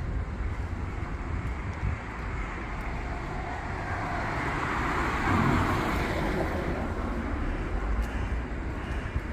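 A vehicle passing by on the street, its noise swelling to a peak about halfway through and then fading, over a low rumble of city traffic.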